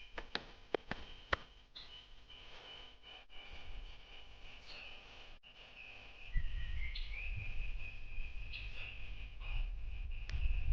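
Outdoor ambience of high, steady whistling calls. There are a few sharp clicks in the first second or so, and a low rumble sets in about six seconds in.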